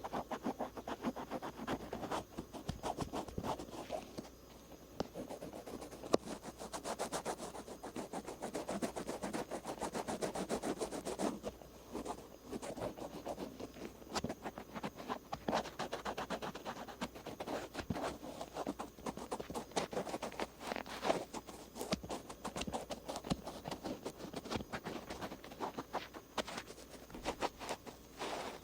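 Cotton swab rubbing and scratching over the folds of an outer ear in ASMR ear cleaning: a close, continuous scratchy rustle of many tiny clicks, easing off briefly twice.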